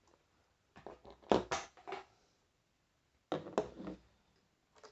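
Two bursts of clicks and knocks, one about a second in and another a little past three seconds: a screwdriver working at small, tight Phillips screws in the plastic back of a toy bank, with the toy being handled.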